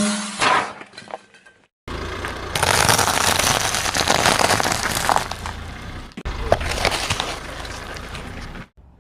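Car tyres crushing objects: sharp cracks and crunches, then a long stretch of dense crackling, hissing noise over a car's low rumble, broken by sudden cuts.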